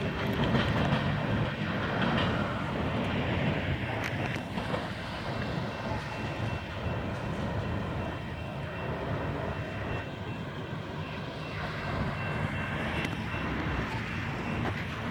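Union Pacific freight train rolling past, a steady rumble of the cars on the rails with a few faint clicks.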